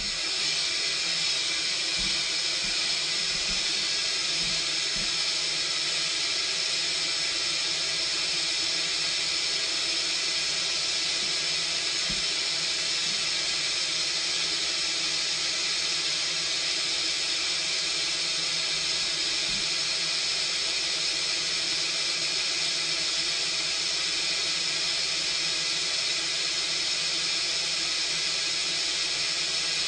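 Mark VII Aqua Jet GT 700 automatic car wash spraying water onto a car: a steady, even rush of spray at a constant level.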